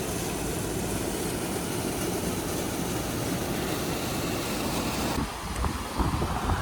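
Motorcycle riding at road speed: a steady engine rumble mixed with wind rush. The rush thins and quiets a little about five seconds in.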